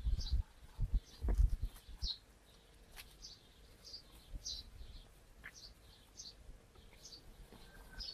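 A bird chirping over and over: short high chirps about every half to three-quarters of a second. There are a few low knocks in the first two seconds.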